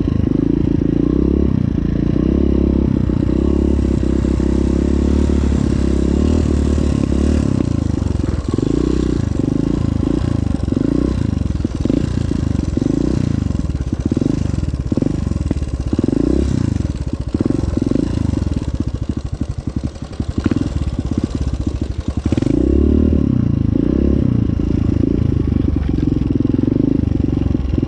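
Dirt bike engine running, held steady at first, then revved up and down repeatedly with its pitch rising and falling, and steady again near the end.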